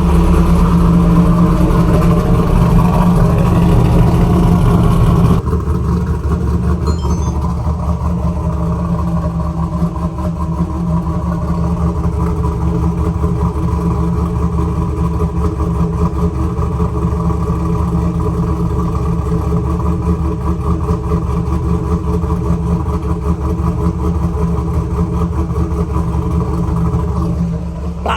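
Cammed LS1 V8 of a 2001 Pontiac Trans Am WS6 idling cold through a loud exhaust, warming up just after a cold start. It is loud at first, then about five seconds in it suddenly drops to a quieter, steady idle.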